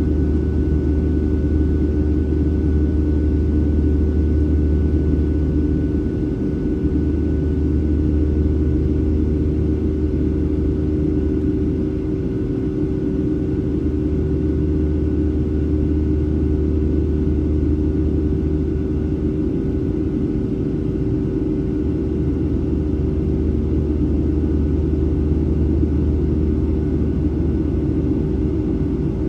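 Steady cabin noise inside a Boeing 737-700 in flight: a constant low rumble from the CFM56-7B jet engines and the airflow over the fuselage, with a steady hum on top.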